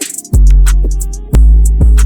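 Bay Area-style hip-hop instrumental beat: long, deep bass notes, two starting about a third of a second and a second and a third in, under ticking hi-hats and a pitched sampled loop, with a cymbal splash at the very start.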